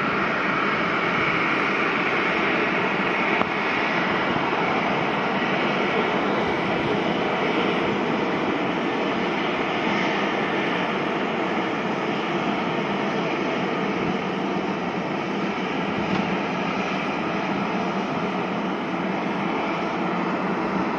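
Jet airliner's engines running, a steady loud rushing noise that eases slightly about two-thirds of the way through.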